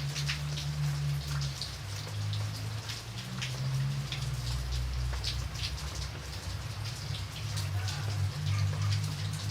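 Rain falling, with many separate drops ticking and pattering on a surface over a steady hiss, and a low hum underneath.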